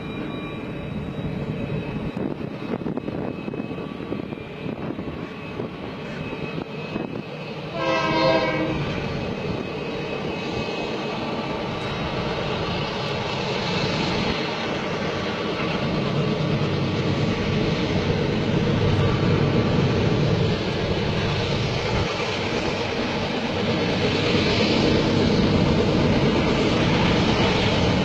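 A container freight train rumbling steadily, louder in the second half. It gives one short horn blast about eight seconds in.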